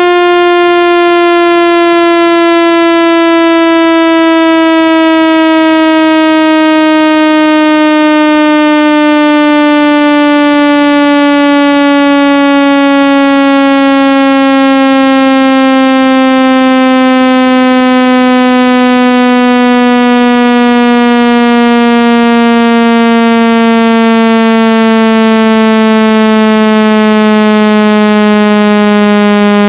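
Electronic speaker-cleaning tone for driving water and dust out of a phone speaker: a loud, buzzy synthesized tone sliding slowly and steadily down in pitch.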